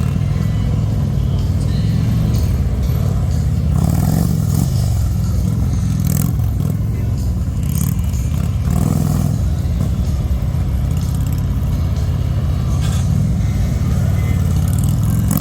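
Police motorcycle engines running at low speed with a steady rumble, revving up and easing off a couple of times, about 4 and 9 seconds in.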